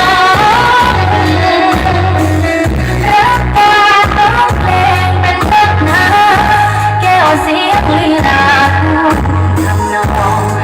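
A pop song with a singing voice played loud through a sound system, with heavy bass notes pulsing about once a second.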